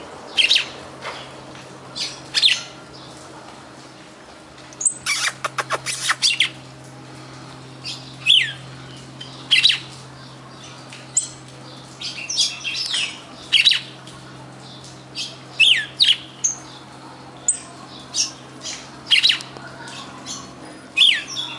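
Songbird calls: short, sharp notes that sweep down in pitch, repeated about once every second or so, with a quick rattle of clicks around five seconds in. A faint steady low hum runs underneath.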